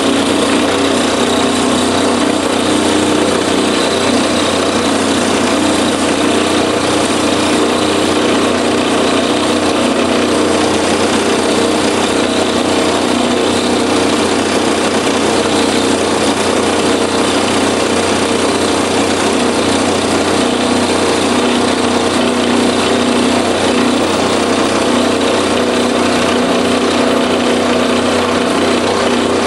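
Small milling machine running steadily with a 1/4-inch cutter milling a homemade lathe tool, a constant motor hum with a cutting rasp over it.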